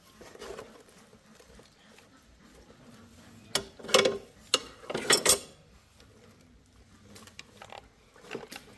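Tools or small hard parts being handled: a short run of sharp clicks and clatters about midway, with a few lighter taps near the end.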